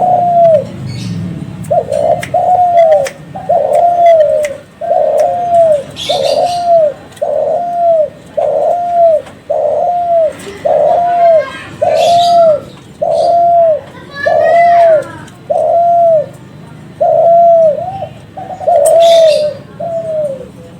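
Spotted dove of the Kelantan breed (derkuku / tekukur Kelantan) cooing: a long, even run of repeated coos, each one dropping in pitch, about one a second. Another small bird chirps briefly a few times over it.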